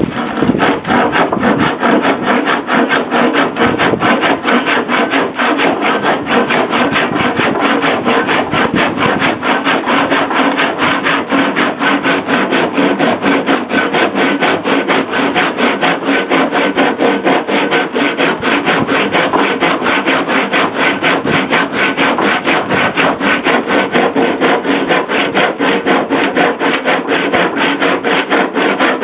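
A hand tool rubbing on wood in quick, even back-and-forth strokes, about three to four a second, keeping up a steady rhythm throughout.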